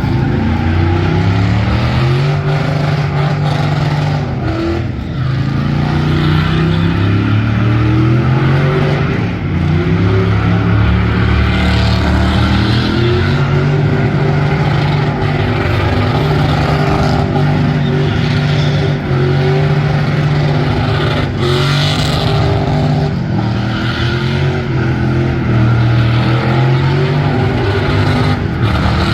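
Truck engine held at high revs, its pitch climbing and falling back again and again, with tire noise from a burnout.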